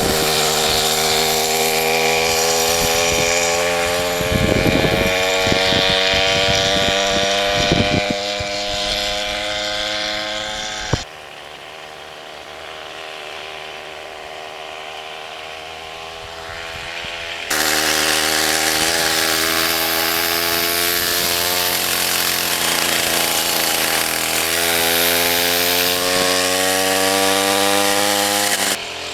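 Two-stroke 33cc Poulan chainsaw engine driving a homemade motorized bicycle, running at high revs with its pitch climbing steadily as it speeds up, plus some rough thumping noise in the first half. About 11 seconds in it drops abruptly to a quieter, lower sound, then comes back loud about 17 seconds in and climbs in pitch again.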